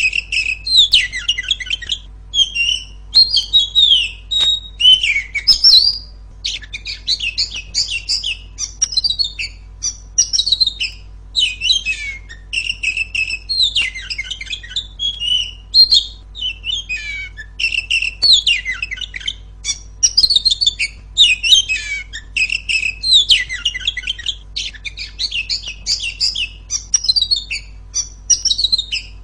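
Female oriental magpie-robin singing, loud and clear: a fast, unbroken run of varied whistles, trills and chirps, with only brief breaks between phrases.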